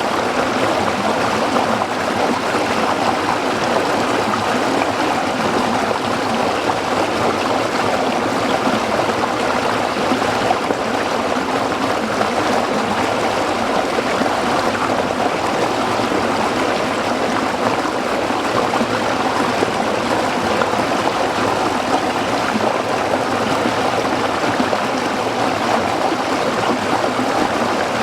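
Stream water flowing and splashing over rocks, a steady rushing babble.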